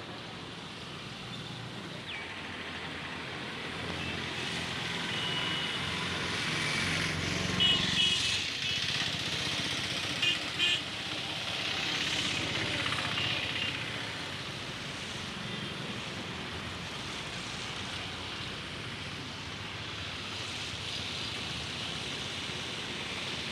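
Steady road-traffic noise of a vehicle travelling along a highway. There are a few short, high-pitched beeps about eight and ten seconds in.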